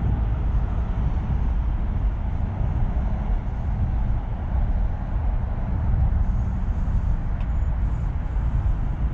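Tuned Subaru Impreza STI's turbocharged flat-four running through a Milltek aftermarket exhaust: a steady low rumble that holds an even level without clear revving.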